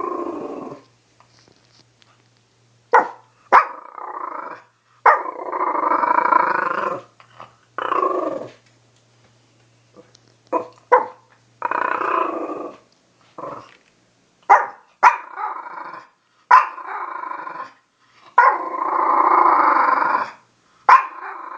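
A dog growling and grumbling in a string of separate bursts, some short and sharp, a few drawn out for a second or two, with pauses between them.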